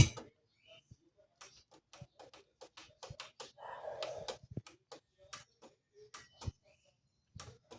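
Scattered small clicks and taps from operating the controls and mechanism of a Sony LBT stereo system while its music is stopped, with a faint rustle about four seconds in.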